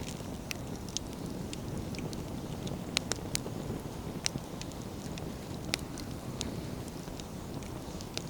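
Wood fire burning: a steady low rush of flames with irregular sharp crackles and pops of burning firewood, the loudest about three seconds in.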